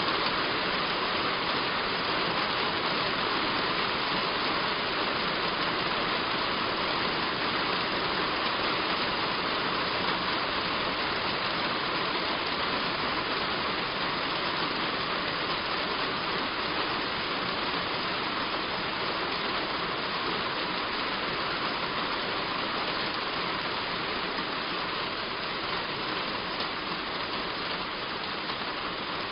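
Heavy rain falling on a roof: a steady, even hiss that eases slightly in loudness near the end.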